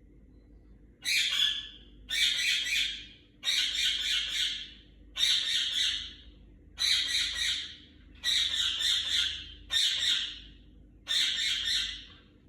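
Pet bird screaming: about eight loud, harsh screams, each a second or so long, repeating roughly every one and a half seconds after a second of quiet.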